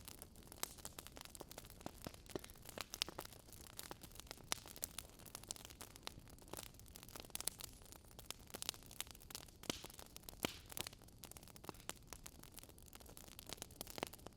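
Wood fire burning, the logs crackling with frequent irregular sharp pops and snaps over a soft steady hiss.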